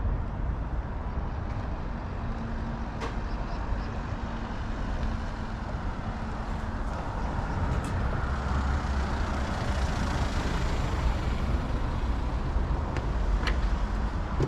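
Road traffic with a steady low rumble; a motor vehicle passes, its sound swelling to a peak about two-thirds of the way in and then easing. A few short clicks are heard over it.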